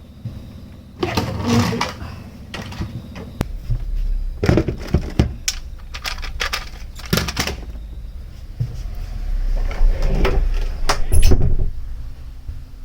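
A vacuum cleaner being handled and put away: irregular knocks, clicks and rustling, with low bumps, in several clusters.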